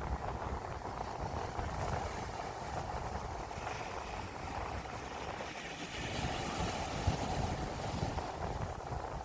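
Sea waves washing onto the shore, with wind buffeting the microphone in gusts.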